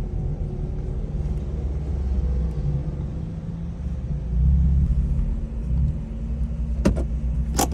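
BMW M4's engine rumbling at low speed, swelling briefly about halfway through, with a few sharp clicks near the end.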